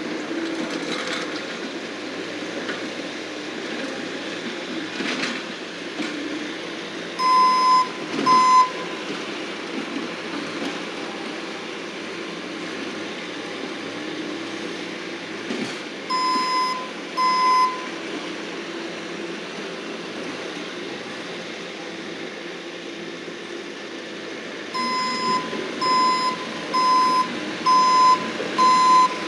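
Skid-steer loader's backup alarm beeping as it reverses: two beeps about 7 seconds in, two more about 16 seconds in, then a run of beeps about one a second near the end, over the machine's steady engine noise.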